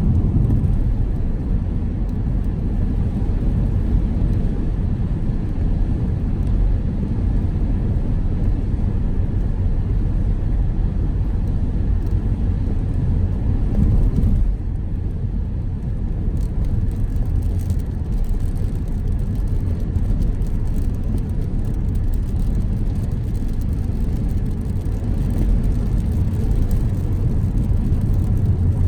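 Car driving on a road: a steady low rumble of engine and tyre noise, dipping slightly about halfway through.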